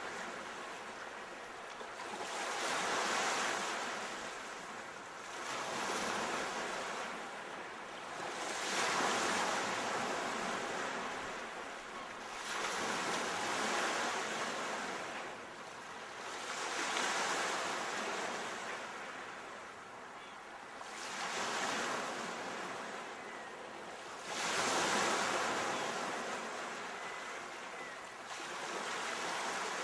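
Sea waves breaking and washing up the shore, each surge of surf swelling and fading away every few seconds in a steady rhythm.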